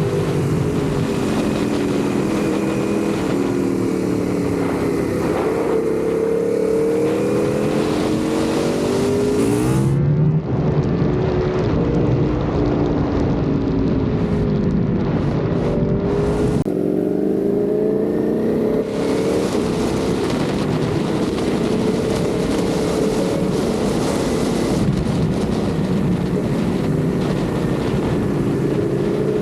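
Ducati Panigale V4 motorcycle's V4 engine running on the move, its pitch falling and rising several times as the revs change through the gears.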